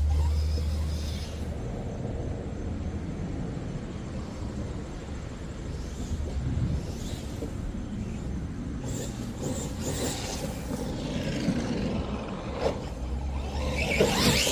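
Arrma Quake 2WD RC truck with a 4000kV brushless motor on a 3S battery, being driven. Its running noise is steady, with low rumbles in the first second and again just before the end, and a louder surge right at the end.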